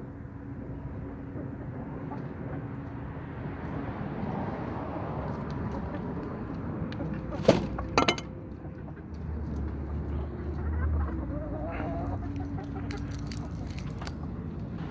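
Chickens clucking softly as they feed, with two sharp clicks or knocks about halfway through.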